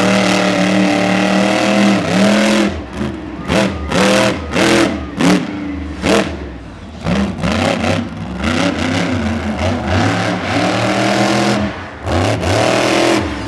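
Monster truck engine revving hard. It holds high revs for a couple of seconds, then gives a run of short throttle blips with pitch rising and falling, holds high revs again, and ends with more quick blips.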